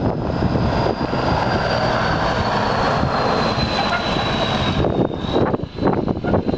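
1994 White/GMC truck's engine running, with a high whine that slowly falls in pitch. Wind buffets the microphone near the end.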